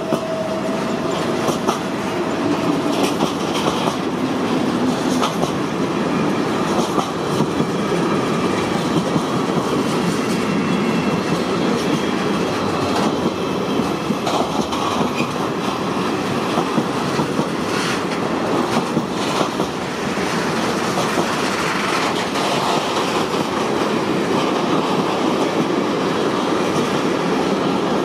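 Long intermodal freight train of container and tank-container wagons rolling past behind a BLS Re 465 electric locomotive. The wheels give a steady rolling noise with scattered clicks over the rail joints, and a steady tone fades out in the first few seconds.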